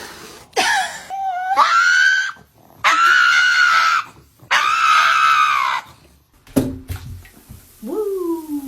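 Three long, loud, high screams, each held for about a second, then a shorter cry near the end that falls in pitch.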